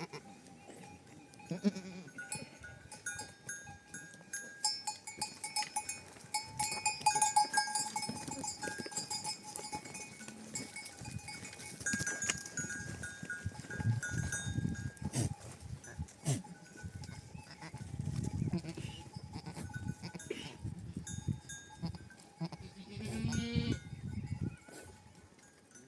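A flock of goats and sheep moving about with their neck bells clinking and ringing, and one animal calling out near the end.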